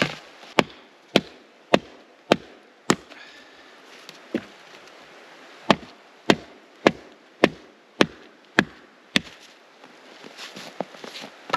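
Wood being chopped with steady, sharp strokes about every half second: a run of five, a single stroke, then a run of seven.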